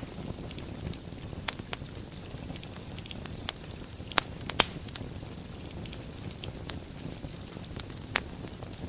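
Fire burning in a fireplace: a steady low rumble of flames with scattered sharp crackles and pops, the loudest two close together a little past four seconds in.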